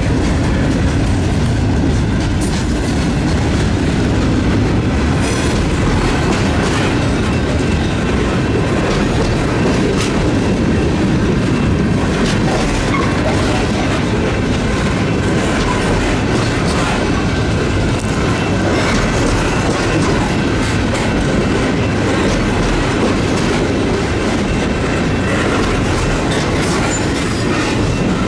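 Freight train rolling past at close range: a GE AC4400CW diesel locomotive goes by at the start, then a long run of empty tank cars with steady clickety-clack of wheels over the rail joints and some wheel squeal.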